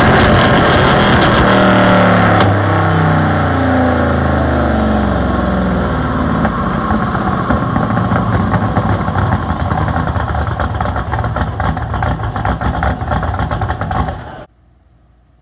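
1970 Chevrolet Chevelle's engine on a chassis dynamometer at the end of a roughly 1,938 hp pull. It runs hard, then about two seconds in it winds down with falling pitch and settles into a loud, uneven idle. The sound cuts off suddenly near the end.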